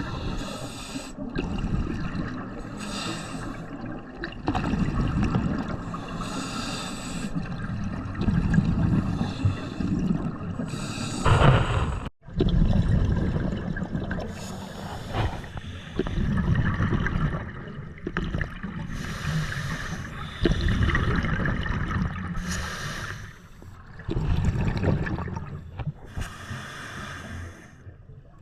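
Scuba diver breathing through a regulator underwater: slow breaths repeating every three to four seconds, each exhale a gurgle of bubbles, over a steady low underwater rumble.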